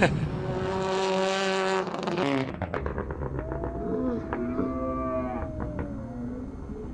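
Rally car engine at full throttle, holding a steady high pitch for about two seconds before cutting off abruptly. It is followed by lower, wavering engine tones that rise and fall.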